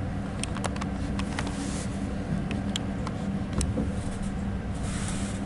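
Passenger train running slowly into a station, heard from inside the carriage: a steady low rumble and hum, with several brief sharp high squeaks in the first few seconds.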